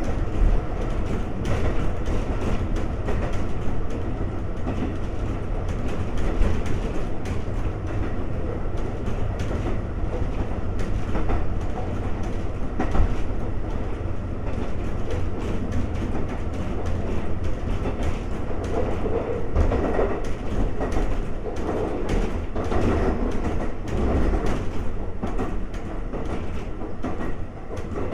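Ex-Tokyu 7000 series electric railcar running along the line: a steady rumble of wheels on rail with faint clicks over the rail joints.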